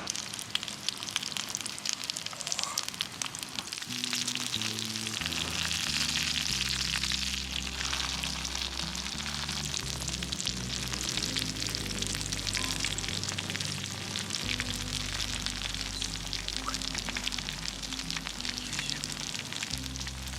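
Food frying and sizzling in hot oil, a dense crackle of fine spits and pops. Background music with a low bass line comes in about four seconds in.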